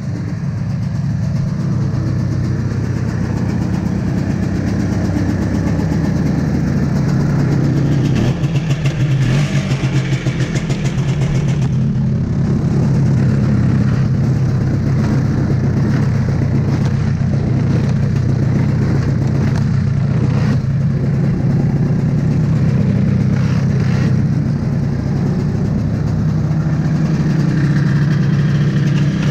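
Two-stroke single-cylinder engine of a 1982 Yamaha Bravo snowmobile running steadily, warming up in deep cold. Its note wavers between about eight and eleven seconds in.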